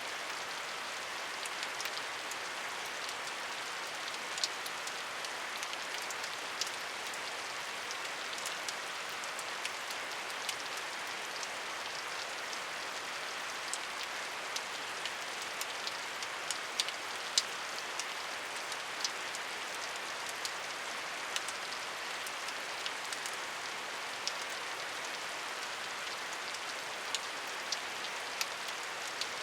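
Steady rain falling, an even hiss with many scattered sharp drip ticks, a few of them louder, from drops hitting a surface close by.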